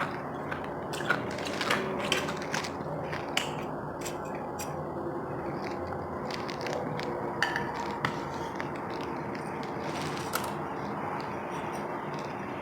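Close-miked chewing of ice: sharp crunches come thick and fast in the first few seconds, then only now and then, over a steady hiss.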